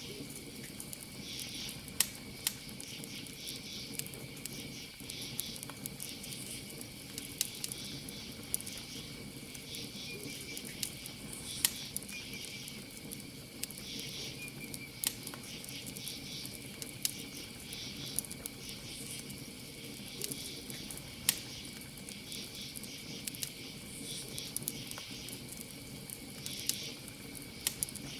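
Campfire crackling, with sharp wood pops every second or few, over a steady background of crickets trilling and chirping.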